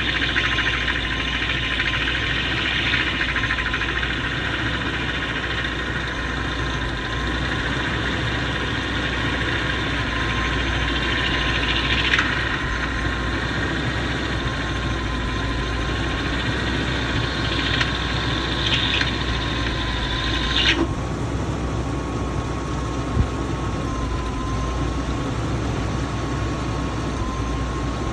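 BMW M73 V12 engine idling with a loud hissing whir over it, the noise the owner likens to a pump starting and stopping every few minutes. The whir cuts off suddenly about two-thirds of the way through, leaving the engine's steady running.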